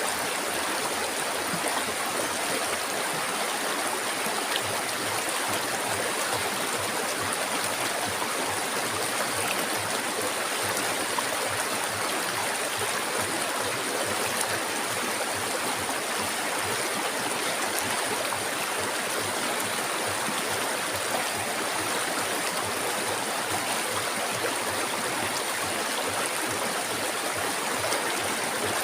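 River water flowing, a steady rushing that stays even throughout, with a constant high hiss above it.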